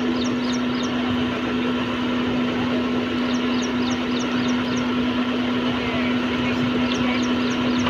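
Heavy diesel engine of construction machinery running steadily with a constant hum. Three quick runs of short, high chirps come over it: at the start, in the middle and near the end.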